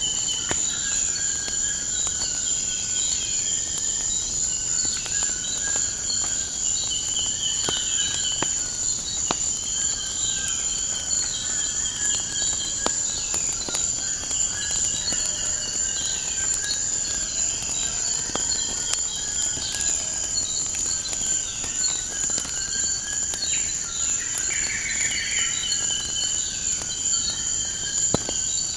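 Steady high insect trilling, like crickets, with birds chirping and calling throughout, and scattered small crackles and pops of a wood fire.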